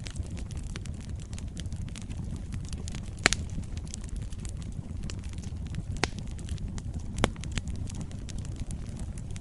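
Wood fire burning in a fireplace: a steady low rumble with scattered crackles and three sharper pops, the loudest about three seconds in.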